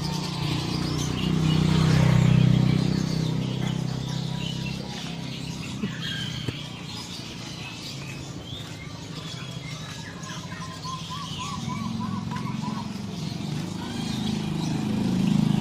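Many caged songbirds chirping and whistling at once, with a run of quick repeated notes about ten seconds in. A low rumble underneath swells about two seconds in and again near the end.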